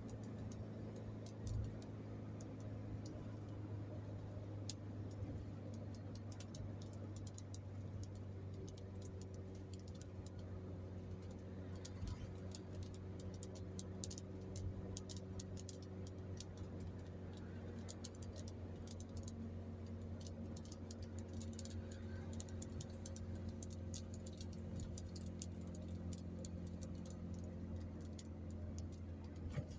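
Steady low drone of a car driving at road speed, heard inside the cabin, with many light, irregular ticks over it.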